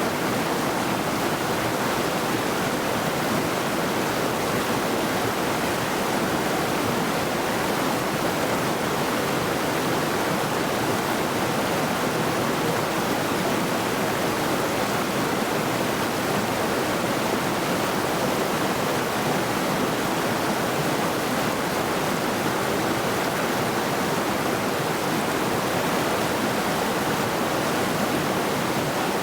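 Middle Saluda River, a mountain river rushing over rocks: a steady, even rush of water.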